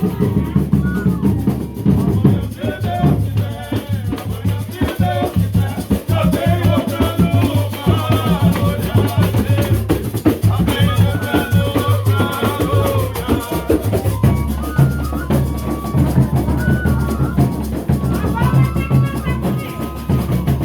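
Folia de Reis music: several voices singing over a steady bass, with drums beating and rattles shaking throughout.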